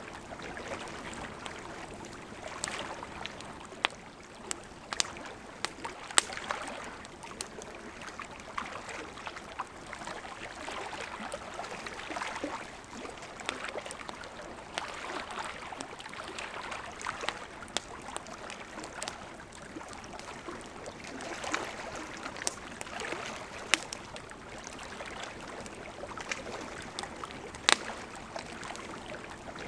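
Campfire of burning wood crackling: a steady hiss of flames with sharp pops scattered irregularly throughout, a few of them louder and one of the sharpest near the end.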